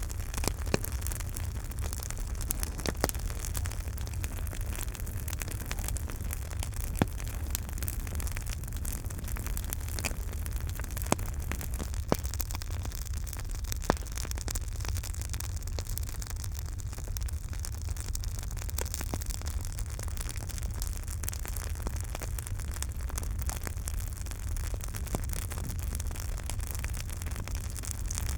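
Campfire crackling: a steady hiss over a low rumble, with many small sharp crackles and a handful of louder pops scattered through.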